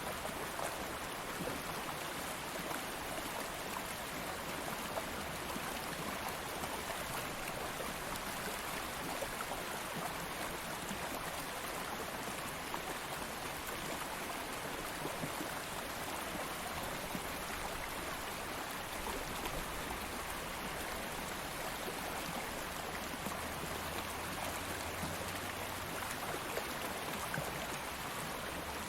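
Shallow stream of water flowing steadily over stones, a constant babble with fine splashing and trickling.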